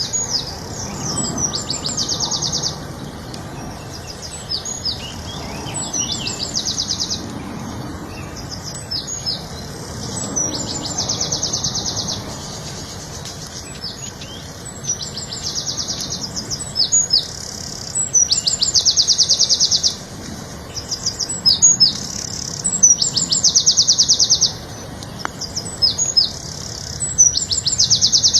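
A small songbird singing the same short phrase over and over: a few quick high notes sliding down, then a fast high trill about a second long, repeated every three to four seconds.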